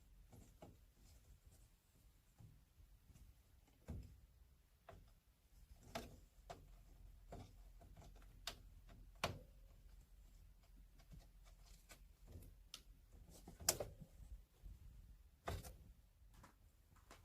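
Near silence broken by scattered faint taps and knocks at irregular intervals, the sharpest about 9 and 14 seconds in.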